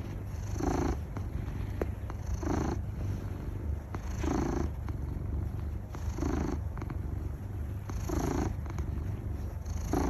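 Domestic cat purring: a steady low rumble with a louder, breathier swell about every two seconds.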